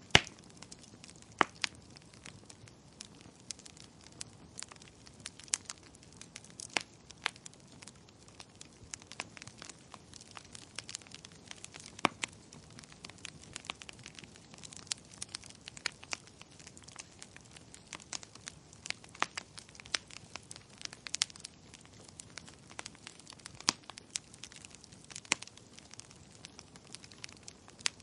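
Wood fire crackling in a fireplace: irregular sharp pops and snaps, sometimes several a second, over a faint steady hiss. A loud pop comes at the very start and another about a second and a half in.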